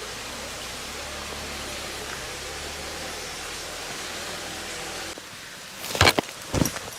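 A steady rushing noise that stops abruptly about five seconds in, followed by two loud sharp impacts near the end.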